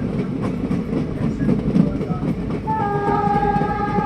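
Rumble of an ICF passenger coach running along the track, with faint clicks of the wheels over rail joints. About three seconds in, a train horn starts sounding one steady note.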